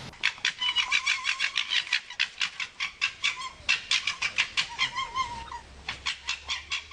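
Fox calling in a rapid chattering series of short, sharp, high-pitched cries, about five a second, tailing off near the end.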